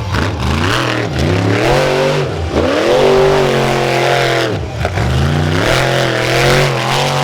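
Monster truck engine revving hard, its pitch dropping off and climbing back up several times.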